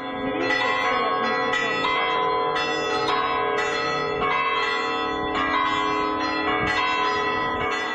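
Church bells ringing, many strikes overlapping so the tones ring on into each other.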